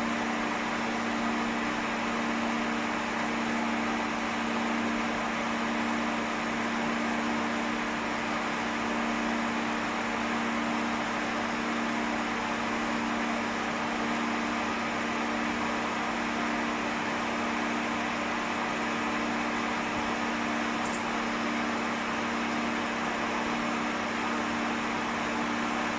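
Hair dryer blowing steadily on a cat's fur: an even rush of air over a constant low motor hum.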